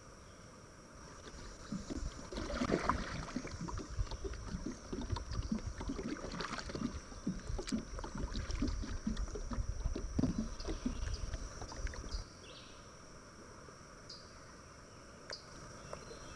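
Water splashing and irregular knocks around a sit-on-top kayak for about ten seconds, then quieter. A steady high insect drone runs underneath.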